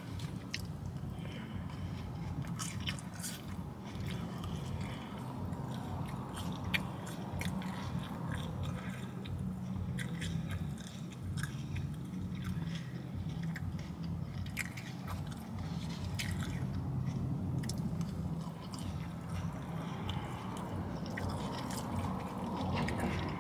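Close-up chewing and mouth sounds of someone eating a bowl of rice, lettuce and cheese, with scattered small clicks and scrapes of a fork on the bowl, over a steady low hum.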